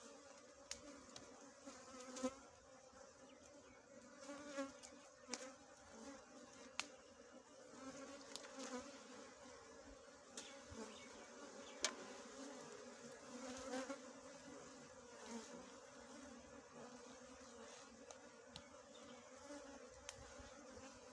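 Small honeybees buzzing around their disturbed nest: a steady, faint hum, with a few short clicks scattered through it.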